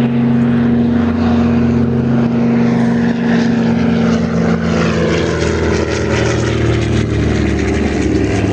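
A propeller airplane's piston engine running loud and close, a steady drone whose tones shift slightly lower in the second half.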